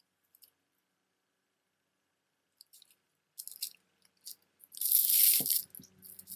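Stone-bead jewelry being handled: a few small clicks of beads, then a loud crinkly rattle of beads and packaging shortly before the end.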